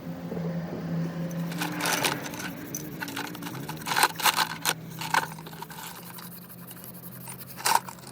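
Sharp metallic clinks and taps, several in the middle of the stretch and one more near the end, over a steady low hum: tools and metal engine parts being handled during an engine rebuild.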